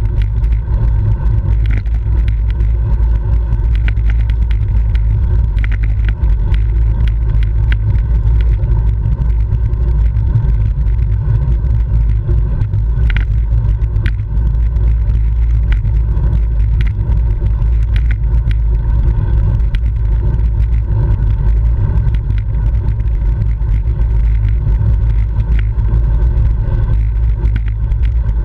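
Steady wind rumble buffeting the microphone of a camera riding along on a racing bicycle, with scattered sharp clicks and rattles from the bike over the road.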